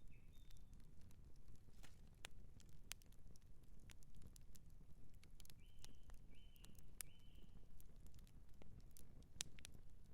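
Outdoor campfire crackling: irregular sharp pops and snaps of burning wood over a low steady rumble of the fire. Three short high chirps come just past the middle.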